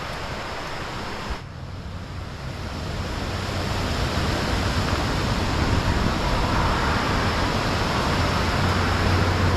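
Whitewater rushing through a river rapid: a steady, even rush of water that dips briefly about a second and a half in, then swells gradually louder.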